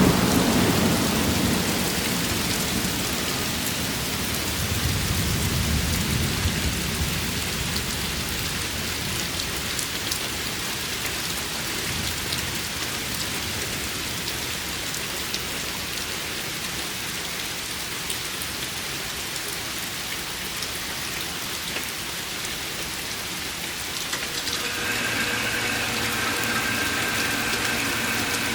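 Steady heavy rain with thunder rumbling, the rumble fading over the first seconds and swelling again about five seconds in. About 24 seconds in, a steady mechanical hum with a few held tones joins the rain.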